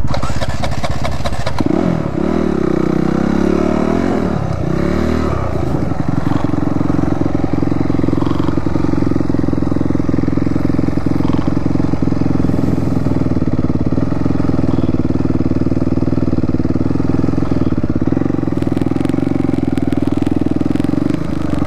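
Dirt bike engine running under way, its pitch swinging up and down a few times as the throttle is worked in the first few seconds, then holding a fairly steady pitch.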